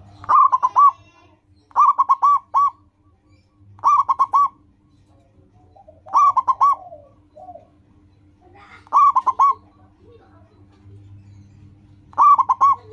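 Zebra dove (perkutut) cooing: six short phrases, each a quick run of three or four coo notes, repeated every one to three seconds.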